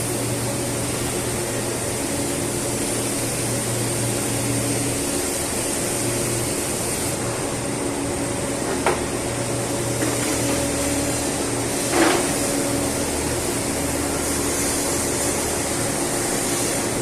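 Steady hum of industrial machinery running, with several steady tones and a high hiss, broken by two sharp metallic knocks, the louder one near the end.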